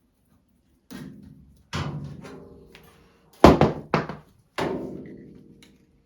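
Seven or so knocks on a steel door leaf, each ringing briefly as it fades, the loudest about halfway through.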